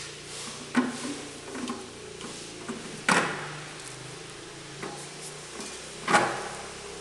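Knocks and clicks from tools and parts being handled during engine strip-down work: three sharp knocks about three seconds apart, with lighter clicks between them, over a steady low hum.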